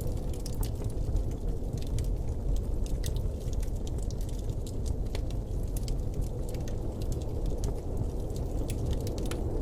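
Blizzard wind ambience: a steady low rumble of wind, with scattered small crackles and ticks over it.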